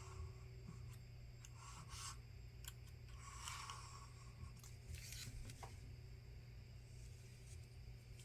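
Faint, scattered light scrapes and small clicks of hand repair tools working on an opened smartphone's internals, over a steady low hum.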